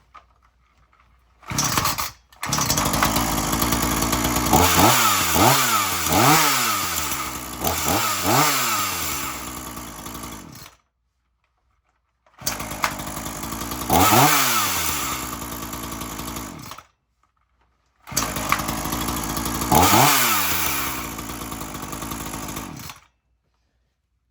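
Two-stroke gasoline chainsaw running, its throttle blipped so the engine speed rises and falls several times. The sound starts and stops abruptly three times.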